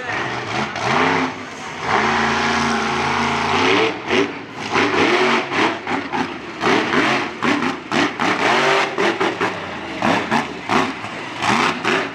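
Monster truck engine revving hard and repeatedly, its pitch rising and falling, held at a steady high pitch for about a second and a half near the start, with many sharp bangs throughout.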